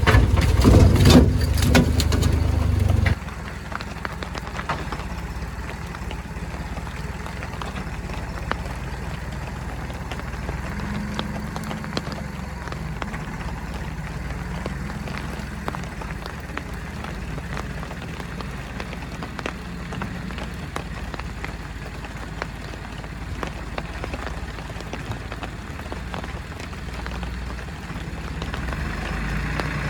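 Diesel engine of a heavy work machine running steadily. In the first three seconds it is louder, with knocks and clatter. It then drops suddenly to a steady low hum with faint scattered clicks.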